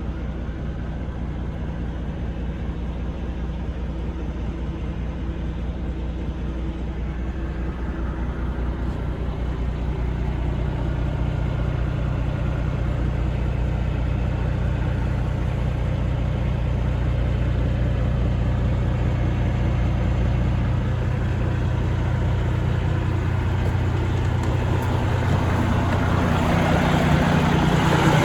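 2016 International LoneStar truck's diesel engine idling steadily, growing gradually louder over the second half.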